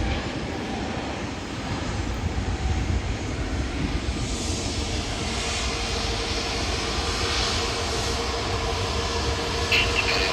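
Jet airliner engines: a steady low rumble with a hiss over it.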